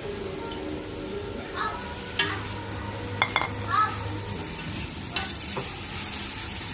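Chopped tomatoes sizzling in hot oil with fried onions in a metal pot as they are stirred in with a metal slotted spoon, which clinks against the pot a few times. This is the tomato-sautéing stage of a biryani base.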